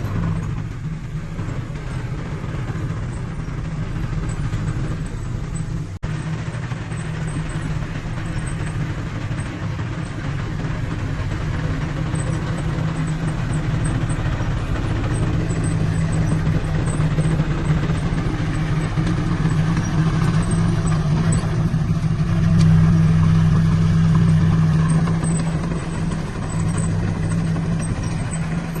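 Diesel engine of heavy earthmoving machinery, a dump truck or bulldozer, running steadily under load, growing louder for a few seconds after about twenty-two seconds in.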